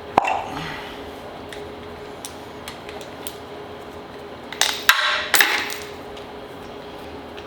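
Metal hand tools clanking and knocking on metal engine parts: one sharp knock just after the start and a cluster of clanks and rattles around the middle.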